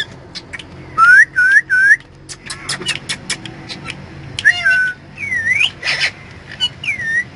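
Indian ringneck parrot whistling and chirping: three loud short swooping whistles about a second in, among many sharp clicks, then more swooping whistled calls near the end.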